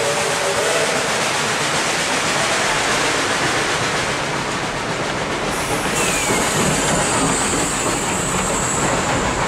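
Narrow-gauge passenger coaches rolling past, a steady rumble and clatter of wheels on the rails, with the end of a steam whistle blast fading out in the first second. About six seconds in, a thin high squeal from the wheels joins the rumble.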